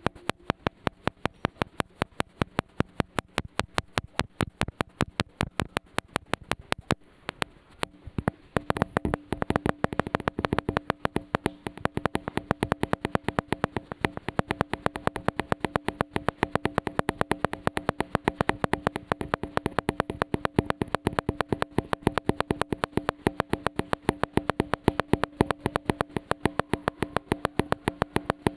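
Rhythmic electronic backing track: evenly spaced sharp clicks over a held low tone, the clicks growing denser about eight seconds in.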